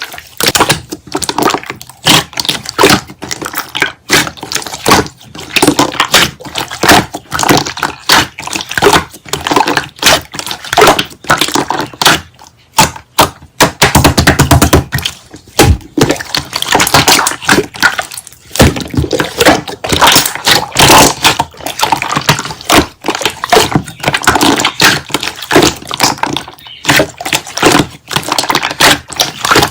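Slime being squished, pressed and poked by hand: a dense, irregular run of wet clicks, pops and crackles.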